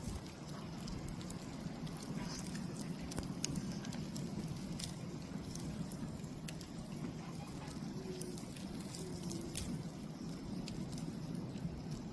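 Campfire burning, with scattered sharp crackles and pops over a steady low rush.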